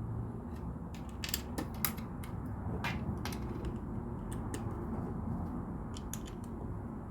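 LEGO plastic pieces clicking and clattering as they are handled and pressed together, in irregular sharp clicks over a steady low background hum.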